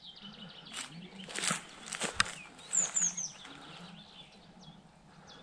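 A small songbird calling with quick, high, falling chirps, a run of three about three seconds in, over a few short scuffs like footsteps.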